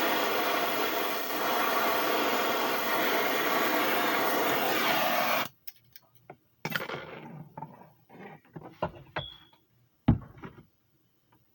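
A loud, steady mechanical hum and hiss that cuts off abruptly about five and a half seconds in. It is followed by handling noise: scattered knocks and clicks, a brief high tone, and one sharp loud knock near the end.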